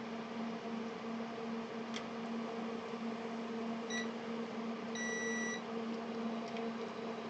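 Digital multimeter beeping during a diode test on lifted power-supply diodes: a short beep about four seconds in, then a longer beep of about half a second, over a steady hum. The diodes are being checked for failing open circuit.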